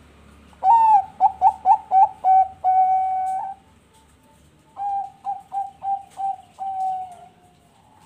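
Zebra dove (Bangkok perkutut) in full song: two phrases, each a quick run of short coos that ends in one long held note. The second phrase starts about halfway through and its last note trails off near the end.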